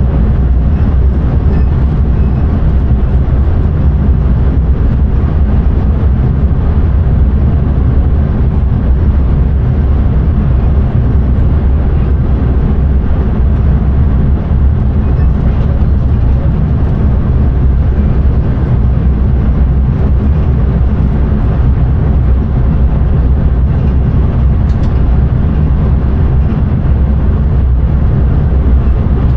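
Intercity train heard from inside the driver's cab while running: a steady, loud low rumble of wheels on rail and traction noise.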